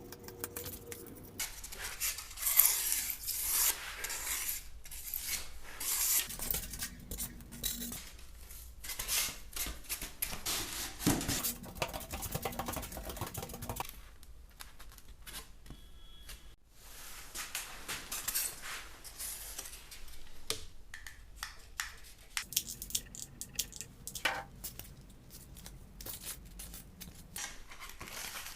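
Irregular clicks, clatter and scraping as tools and materials are handled and cut during model building, with a quieter stretch about halfway through.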